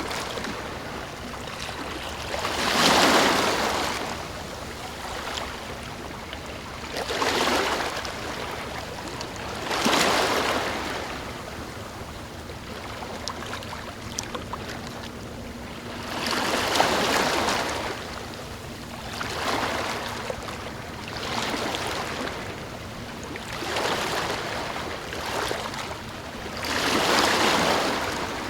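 Ocean waves washing in, a swell of surf every two to four seconds over a steady wash of water.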